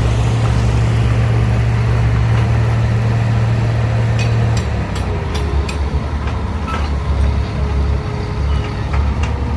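Heavy earthmoving machine's diesel engine running hard, its note dropping to a lower, rougher rumble about halfway through. Several sharp metal clanks come in the second half.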